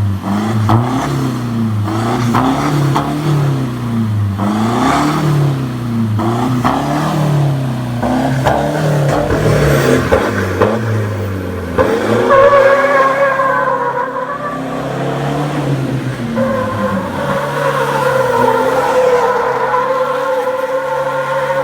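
Ford Ranger pickup engine revving up and down in quick repeated throttle blips through an aftermarket exhaust. From about halfway in there is a long, steady, high-pitched tyre squeal as the truck drifts.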